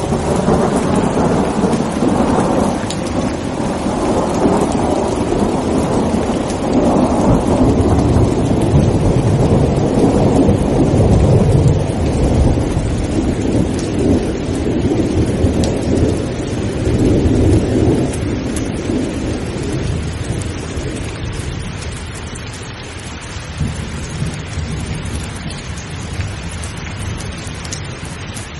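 Steady heavy rain with a long roll of thunder that swells right at the start, rumbles loudest through the middle and slowly dies away in the last third.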